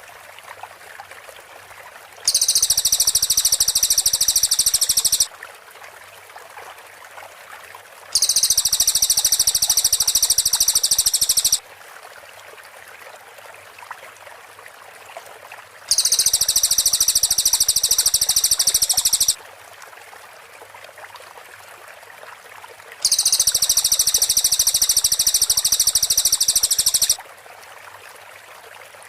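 Cililin bird song in four bursts of about three to four seconds each: a high, very fast rattling run of notes, the close 'rapid-fire' (tembakan rapat) style, with steady hiss in the pauses between bursts.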